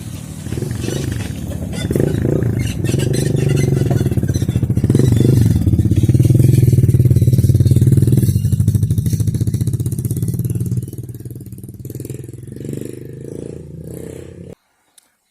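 Motorcycle engine running under way, getting louder a couple of seconds in and easing off about eleven seconds in, then cutting off suddenly near the end.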